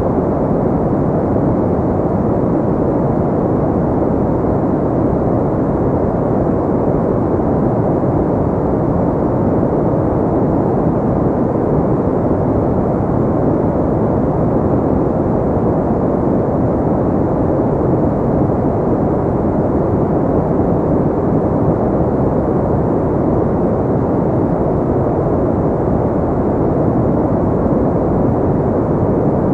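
Steady synthetic pink noise: an even, dull rushing hiss with most of its weight in the low and middle range and little treble, unchanging in level.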